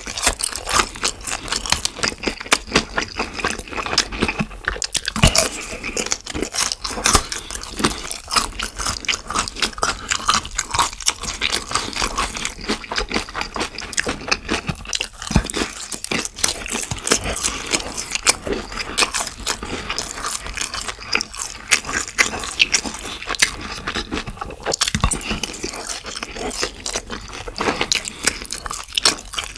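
Close-miked chewing of battered, sweet-and-sour-sauced fried pork (tangsuyuk), with frequent crunches and wet mouth clicks.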